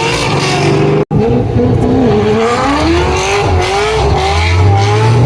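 Loud car engine revving, its pitch climbing and falling repeatedly, with an abrupt break about a second in where the sound cuts and resumes.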